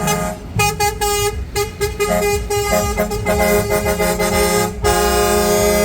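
Truck air horns sounding in a rapid series of short toots at several pitches at once, then breaking into one long continuous blast near the end.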